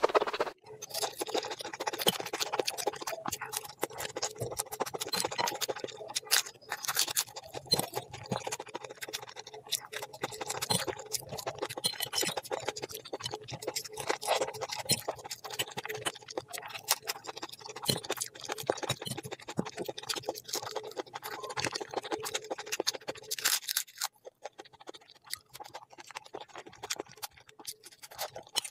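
Close-miked ASMR eating sounds: a person chewing food, with a dense run of wet clicks and crackles. About 23 seconds in the activity thins out and goes quieter.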